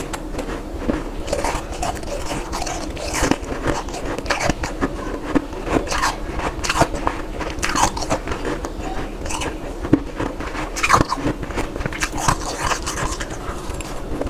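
Ice being bitten and chewed close to the microphone: a run of sharp, irregular crunches, several a second.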